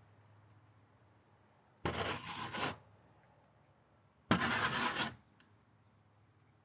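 Two short scraping noises, each just under a second long and about two and a half seconds apart, from a tool working concrete mix.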